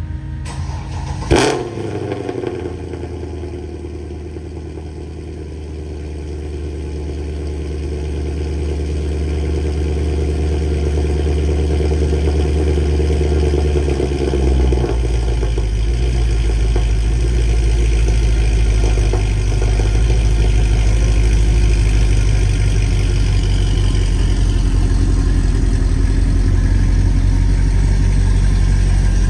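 2014 Mercedes C63 AMG Edition 507's 6.2-litre V8 on a cold start: it fires with a sharp blip about a second in, then settles into a fast, steady cold idle. About halfway through the idle note drops deeper and grows louder.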